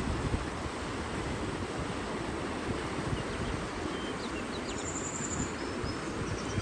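Small birds giving a few brief high chirps, with a short high trill just past the middle, over a steady low rushing background.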